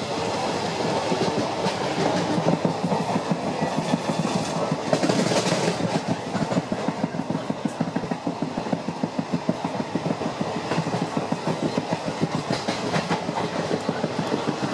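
Passenger train running at speed, heard from on board the coach: a steady rumble with a rapid rhythmic rattle of the wheels over the rails.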